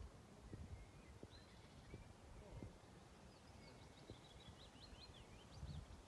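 Quiet outdoor ambience with faint songbird chirps, thickening into a quick run of short high chirps from about halfway through, over a low rumble and a few soft knocks.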